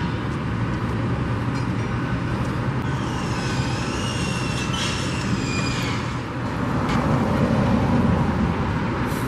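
Steady outdoor traffic and engine rumble, with faint high wavering tones in the middle and a vehicle growing louder for a couple of seconds near the end.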